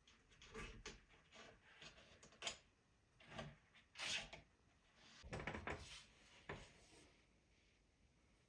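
Faint, irregular knocks, taps and scraping rubs, as of something working against a wooden door; the longest scuffing comes about five seconds in, and the last second or so is near silent.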